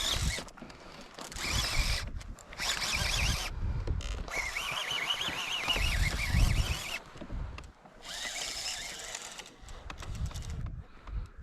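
Fishing reel being cranked hard in spurts of a second or more, its gears whirring, as a hooked fish is reeled in.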